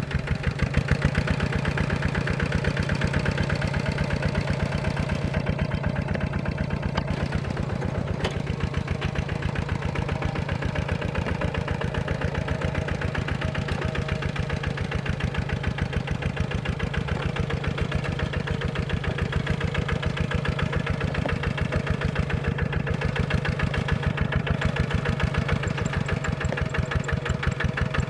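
Kubota RT155 single-cylinder diesel engine on a small tractor, running steadily with a rapid, even chugging.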